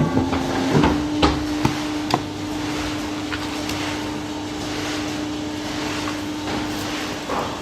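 Polar 115 CE guillotine paper cutter running with a steady machine hum, with a handful of sharp knocks and clicks in the first two seconds.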